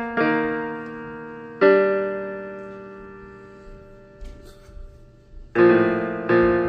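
Slow background piano music: chords struck a few seconds apart, each ringing on and fading away before the next.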